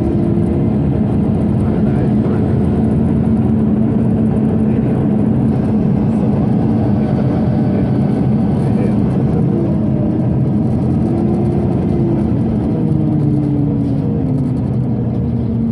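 Scania OmniCity city bus running, heard on board: a steady din of its diesel engine and ventilation, with the engine note rising and falling as the bus changes speed.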